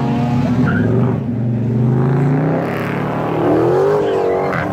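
A car engine revving hard as the car accelerates away, its pitch climbing, dropping back and climbing again several times.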